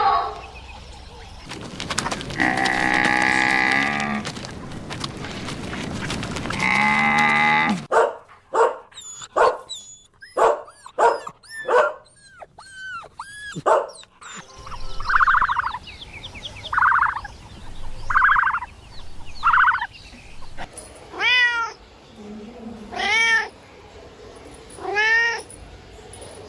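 A string of separate animal calls: two long drawn-out calls, then a quick run of short high cries, four short evenly spaced calls, and a few cat meows near the end.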